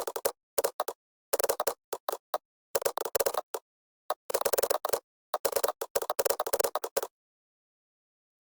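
Computer keyboard typing in quick runs of keystrokes with short gaps between them, then stopping for the last second and a half.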